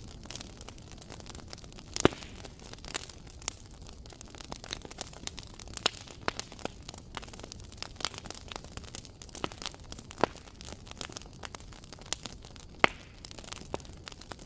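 Wood fire crackling: scattered sharp pops and snaps over a steady low hiss, with two louder pops, one about two seconds in and one near the end.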